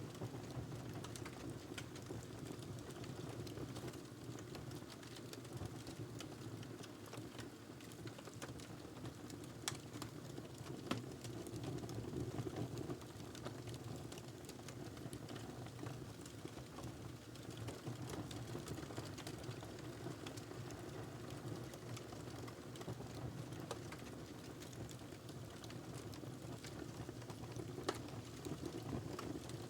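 Wood fire crackling in a fireplace: frequent small crackles over a steady low rumble, with a few louder pops, twice around ten seconds in and once near the end.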